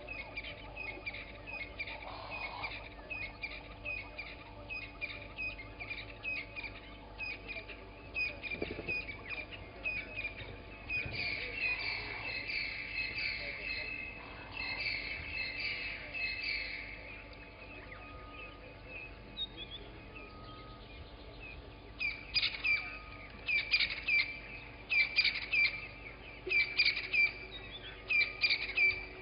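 Several wild birds calling together in a chorus: many short repeated chirps, thickest about a third of the way in, with a run of louder, sharp calls near the end.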